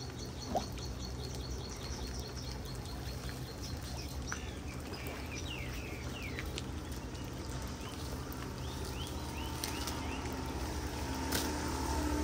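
Floodwater pouring steadily into a storm drain, with birds chirping several times over it. A low steady hum comes in near the end.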